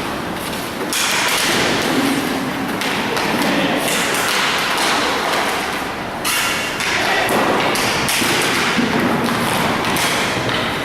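Inline hockey play: a steady rolling rumble of skate wheels on the rink floor, with repeated clacks and thuds of sticks and puck against the floor and boards.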